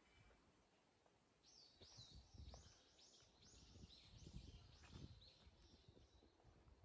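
A small bird calling faintly: a run of about a dozen short, high, arching chirps, about three a second, starting a second and a half in and stopping near the end, over faint outdoor background.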